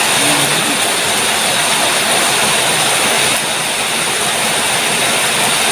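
Heavy rain falling steadily, a loud even hiss with no let-up.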